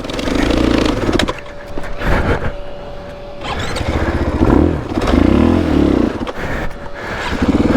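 Dirt bike engine revving in bursts as the bike is worked up a steep hill. It drops back for a couple of seconds about a second in, then revs again, with knocks and scrapes mixed in.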